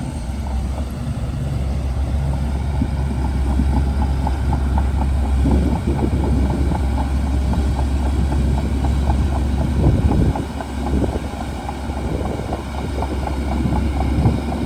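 Shantui DH17C2 bulldozer's diesel engine running steadily, with a fast, regular clicking heard over it through most of the stretch.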